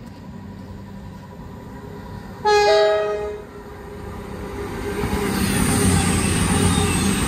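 CrossCountry Voyager diesel multiple unit sounding a two-tone horn blast of about a second, then approaching and passing close by, its rumble and rail noise rising to loudest near the end.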